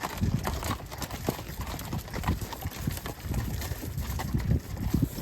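Hooves of a string of pack animals clopping along a dirt trail, with many uneven thuds from several animals walking, as they haul bridge materials in.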